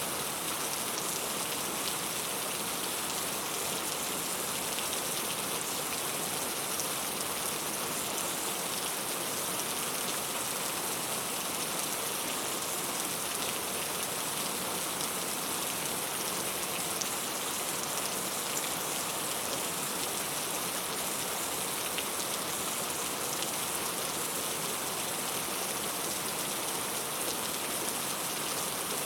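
Steady rain, a constant hiss with many small drop ticks on a surface.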